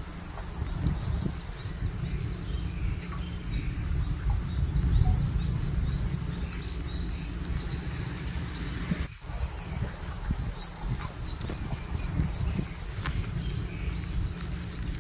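Outdoor insect chorus with a steady high buzz, scattered short bird chirps, and a low rumble of wind on the microphone. The sound drops out for an instant about nine seconds in.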